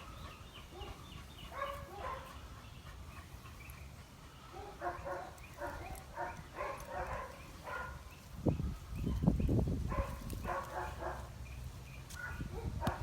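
A puppy barking and yapping in short clusters of pitched calls, held back while excited for bitework. About two-thirds of the way through comes a loud low rumble, the loudest sound here.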